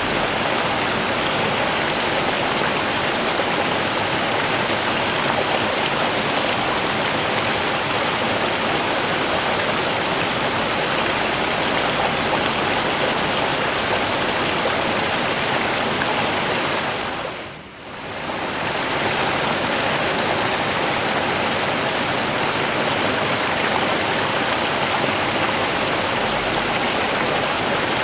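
River water flowing: a steady, even rush of moving water. About two-thirds of the way through it briefly fades down and comes back up.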